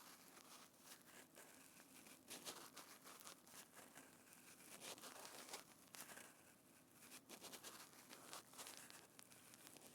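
Quiet, dense crackling and crinkling from hands working a soft tactile material close to a binaural microphone, with many small clicks throughout.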